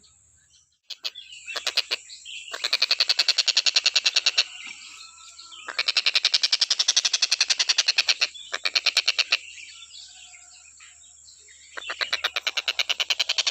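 Kingfisher (tengkek buto) giving loud rattling trills of fast, even pulses, about eight a second, in bursts of two to three seconds with short pauses between them.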